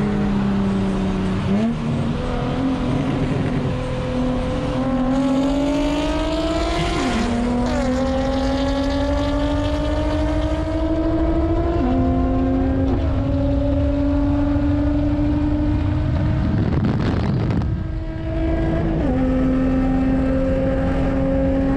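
Car engine heard from inside the cabin, accelerating hard through the gears: its pitch climbs steadily and drops sharply at each upshift, several times over. There is a brief rush of noise shortly before the last shift.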